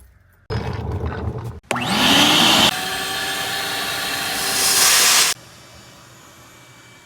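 A vacuum cleaner's motor starting up with a rising whine about two seconds in, running steadily, then cut off near the end. Just before it comes a brief burst of loud rustling noise.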